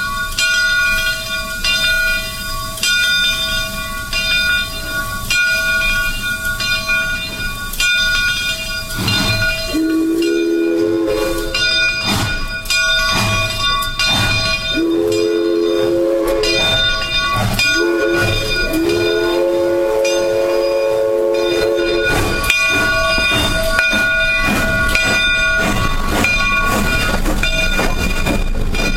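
Southern Railway #401 steam locomotive departing: its bell rings with about one stroke a second, and its whistle sounds four blasts midway, two long, one short and one long, the pattern of a grade-crossing signal.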